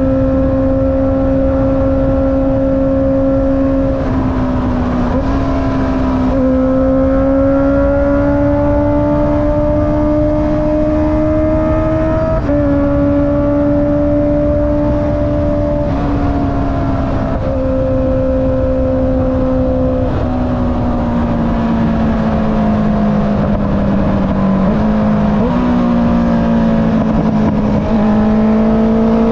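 Honda CB650R inline-four engine through an Akrapovic exhaust, heard from the rider's seat while riding. It gives a steady engine note that climbs and falls gently with the throttle, and its pitch steps abruptly several times, with a low rumble of wind and road underneath.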